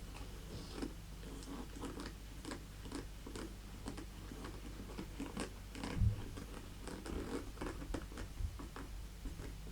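Fingernails tapping and scratching on a purse, in light irregular taps, with one heavier low thump about six seconds in.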